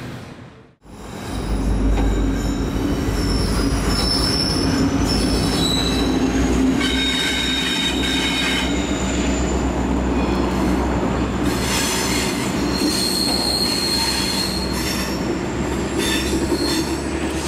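Passenger train hauled by a diesel locomotive rolling through a curve: a steady rumble with high-pitched wheel squeal coming and going. The sound cuts in about a second in, after a brief dropout.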